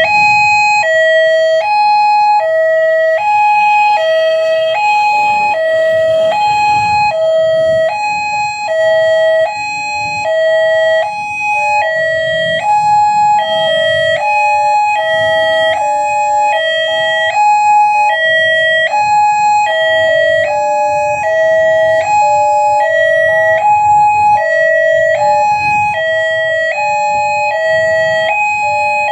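Railway level-crossing warning alarm sounding a steady hi-lo two-tone, switching pitch about every half second, with a low rumble underneath.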